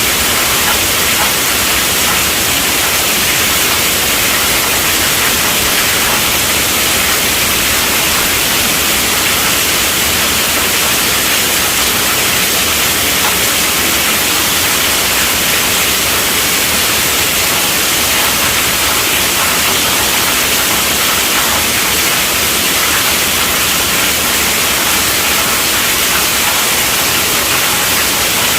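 Heavy rain falling steadily on a tent roof: a dense, even hiss with no breaks or claps of thunder.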